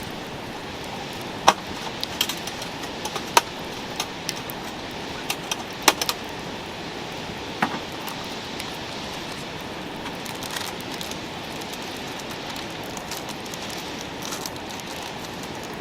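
Metal cooking utensil clinking sharply against a pan over a campfire, a dozen or so strikes in the first half, the loudest with a short metallic ring, over a steady hiss.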